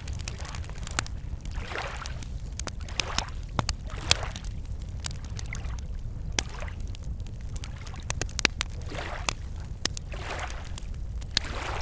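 Wood campfire crackling with scattered sharp pops, over small lake waves lapping against the shore every second or two. A steady low rumble runs underneath.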